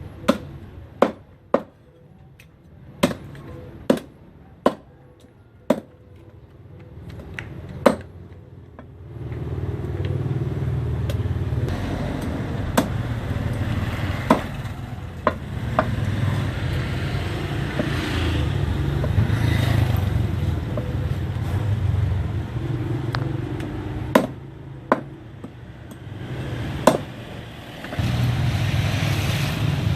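Knife chopping on a cutting board, sharp separate knocks several seconds apart, the kind made when cutting through fish bone. About a third of the way in, a loud steady low rumble starts and runs on under the later chops.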